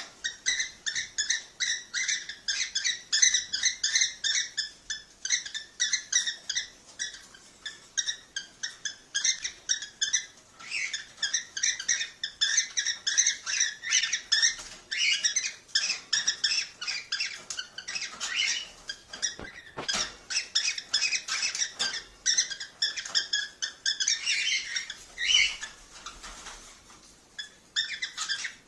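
Cockatiels chirping and chattering in a rapid run of short, high calls, several a second, with a brief lull near the end.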